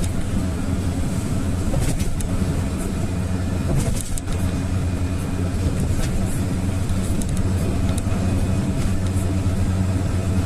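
GAZelle van running at a steady cruise, its engine drone and road noise heard from inside the cab.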